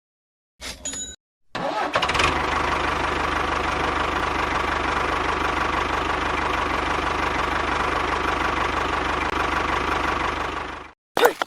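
A small engine starts and runs at a steady speed with an even, rapid pulse for about nine seconds, then cuts off abruptly, followed by two short clicks.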